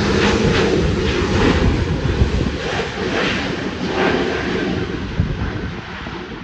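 Jet engine noise from an Airbus A320's two turbofans at takeoff thrust, a loud steady rumble that fades over the last couple of seconds as the airliner draws away.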